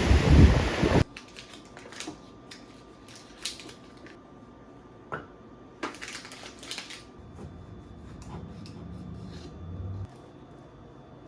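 Surf and wind rushing on the microphone, cutting off suddenly about a second in. Then, in a quiet small room, scattered light clicks and clinks of small objects being handled, with a faint low hum near the end.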